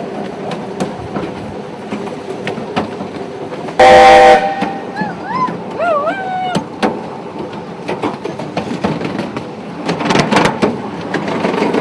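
Miniature railway train running, its wheels clicking over the track, with one short, very loud whistle blast about four seconds in. A louder clatter of wheels comes near the end.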